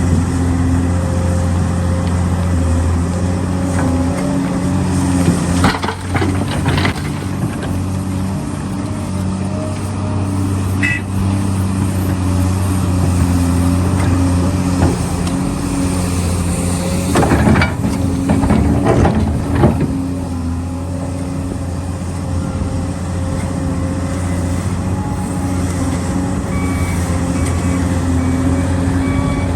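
Heavy diesel machinery running steadily at a constant engine note, with two spells of loud hissing: one about six seconds in, and another from about seventeen to twenty seconds.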